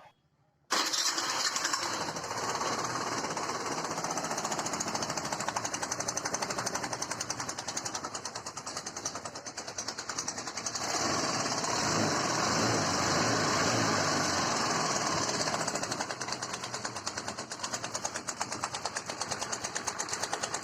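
Hero Duet scooter's 110 cc single-cylinder engine starting about a second in and running with a loud, rapid clattering knock ('khat khat khat'), rising in speed and loudness briefly in the middle before settling back to idle. The mechanic goes on to trace the noise to the valve rockers, one too loose and one too tight, and checks the timing chain.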